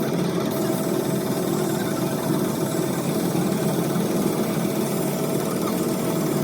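A motor or engine running steadily, with a constant faint whine over an even hum.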